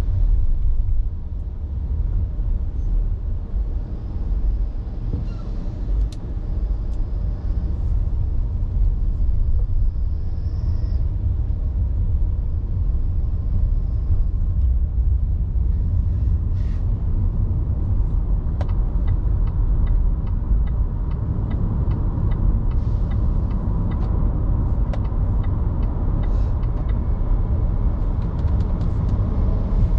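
Car driving, with a steady low rumble of road and engine noise. In the second half a run of quick, evenly spaced ticks comes in over it, about two a second.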